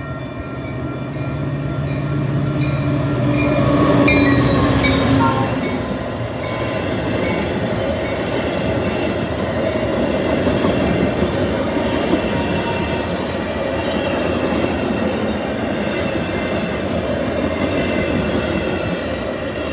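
A diesel-hauled train passing close by: the locomotive's engine swells and drops in pitch as it goes by about four seconds in, followed by a steady rumble and clatter of the cars rolling past that fades near the end.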